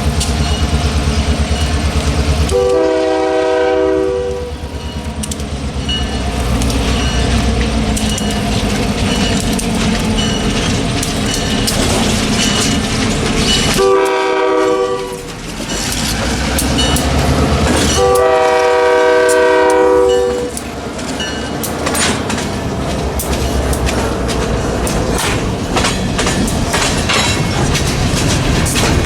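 Diesel freight train passing close by, its locomotive sounding a multi-note air horn three times: long, short, long. Under it the heavy rumble of the train and the rhythmic clatter of its wheels on the rail joints.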